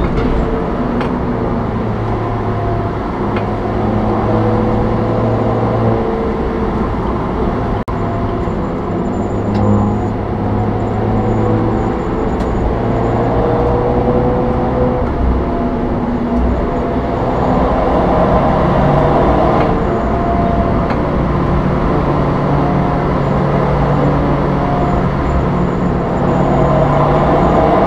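Suzuki Swift's engine and tyre noise at track speed, heard from inside the cabin. The engine note drops as the car slows around the middle, then climbs again as it accelerates hard.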